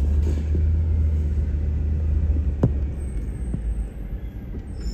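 Rear-loading garbage truck running with a steady low rumble, a sharp knock about two and a half seconds in.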